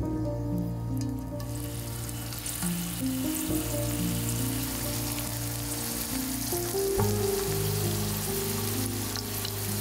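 Whole garlic cloves frying in hot olive oil, a steady sizzle that starts about a second and a half in as the cloves go into the pan. Background music plays underneath.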